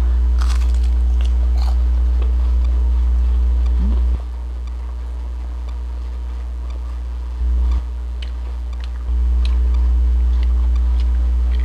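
Close-miked biting and chewing of a fried vegetable lumpia, scattered small clicks of the mouth and teeth. Under it runs a loud, steady low hum that drops in level about four seconds in and comes back near nine seconds.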